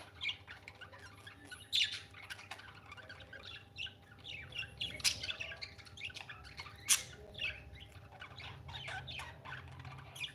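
Small pet parrot chattering: a run of short chirps and squawks, with a few louder calls about 2, 5 and 7 seconds in.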